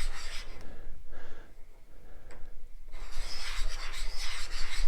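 A spacer being hand-lapped on a flat lap with abrasive compound: a gritty rubbing scrape of figure-8 strokes as the compound cuts. It stops about a second and a half in, with one small click, and starts again near the end of the pause, consistent with the part being turned 90 degrees.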